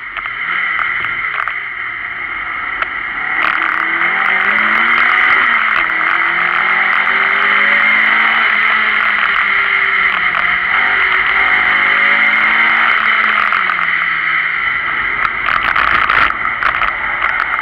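Renault Clio Sport rally car's engine heard from an outside-mounted camera, its pitch climbing and dropping again and again as it accelerates and changes gear, under a steady heavy rush of wind and road noise. It gets louder about three seconds in.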